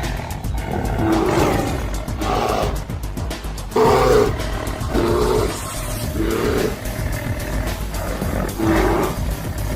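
A big cat giving a series of short, rough roars about once a second, over background music.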